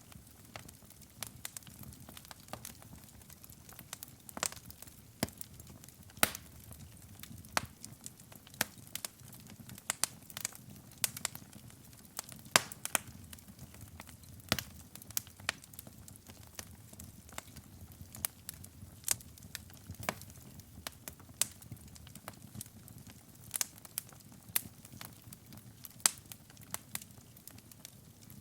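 Wood fire in a fireplace burning with irregular sharp crackles and pops, several a second, over a soft low rumble of the flames.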